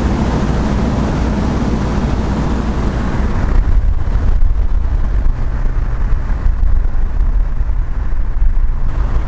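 A car driving at speed: a steady low engine rumble mixed with wind and road noise. The higher hiss drops back a little about four seconds in.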